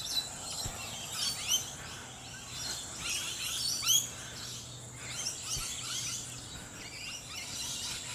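Wild birds chirping and calling in short, quick rising notes, several overlapping, over a steady faint high-pitched hum.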